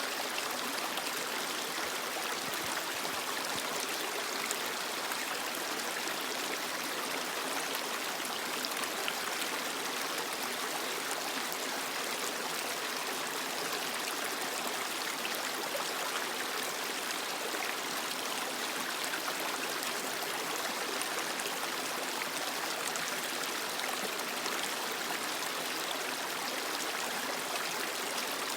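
Creek water running steadily over rocks: a constant rushing and burbling flow.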